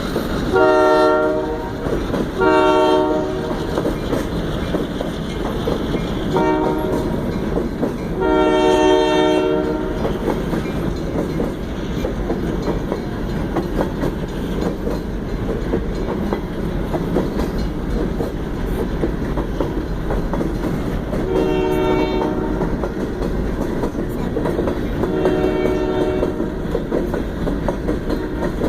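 Diesel freight locomotive horn on a southbound Central Oregon and Pacific train, sounding the grade-crossing signal: two long blasts, a short one and a longer one in the first ten seconds, then more blasts near the end. Under it runs the steady noise of the moving train.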